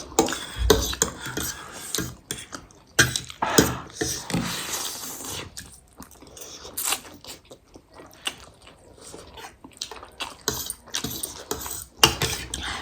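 Eating utensils clinking and scraping against plates and bowls in irregular clicks and short scrapes.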